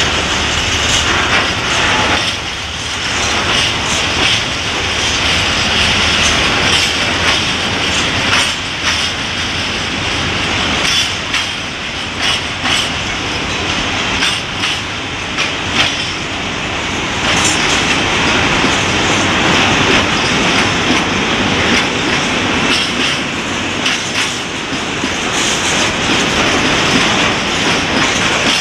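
A freight train's open wagons rolling past close by, their wheels clacking over the rail joints with a steady rumble of running gear.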